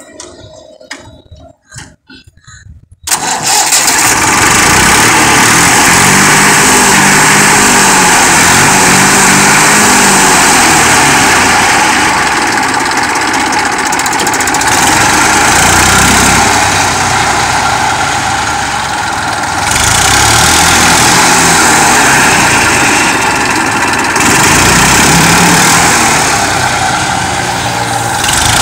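Diesel tractor engine being started: after a few faint clicks it catches about three seconds in and runs loudly, its level dipping and rising a few times as it is revved.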